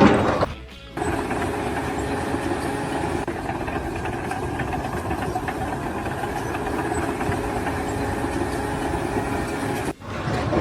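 An engine or machine running steadily, starting about a second in and breaking off shortly before the end.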